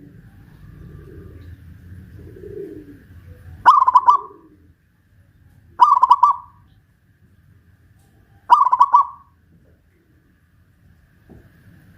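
Zebra dove (perkutut) singing: three loud, short stuttering coo phrases about two to three seconds apart, the first about four seconds in.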